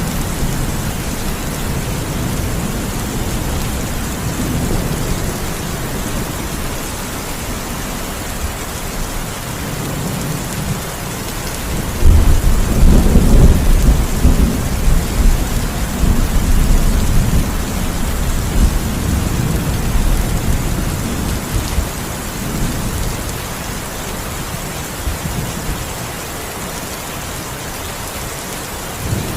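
Heavy rain falling steadily, with thunder rumbling low underneath. About twelve seconds in, a loud thunderclap breaks and rolls away over several seconds.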